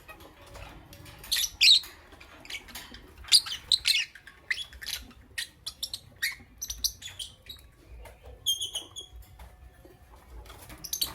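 Lovebird chirping: a busy run of short, sharp, high-pitched chirps and squeaks, then a quick string of short pitched notes about eight and a half seconds in, and one more chirp near the end.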